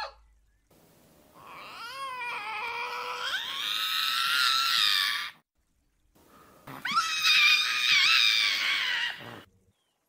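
Eurasian lynx giving two long drawn-out calls with a wavering pitch, the first lasting about four seconds and the second about three, with a short silent gap between them.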